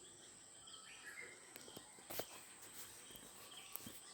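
Faint birdsong, scattered short chirps and twitters of birds in trees, over a steady high-pitched whine. A couple of sharp clicks, about two seconds in and near the end.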